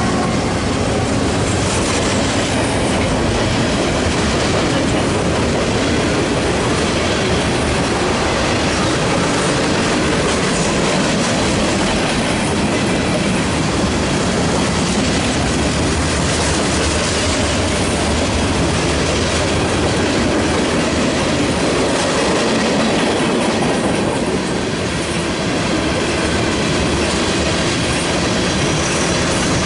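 Freight train cars rolling past at speed: a steady, loud clatter and rumble of steel wheels on the rails.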